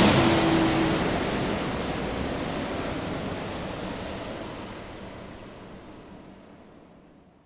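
Airliner cabin noise, a steady rush of engine and air sound with a faint hum in the first second or so, fading out gradually to silence.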